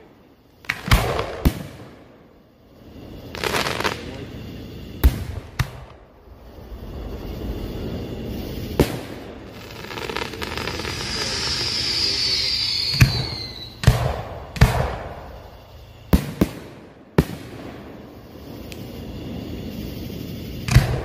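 Aerial fireworks display: about a dozen sharp bangs from shells bursting, spaced irregularly. Midway there is a swell of hiss with a falling whistle.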